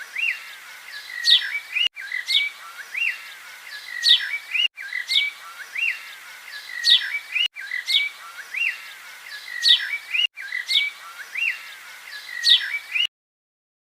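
A bird calling, one short phrase of chirps and high sweeping notes repeated over and over: the same few-second recording is looped, with a brief dropout between repeats. It cuts off abruptly near the end.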